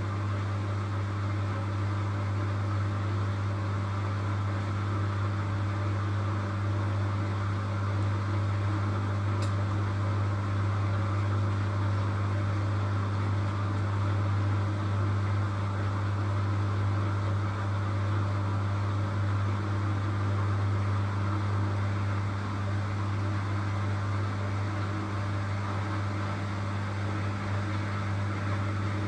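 Washing machine on its spin cycle: a steady, unchanging drone with a strong low hum.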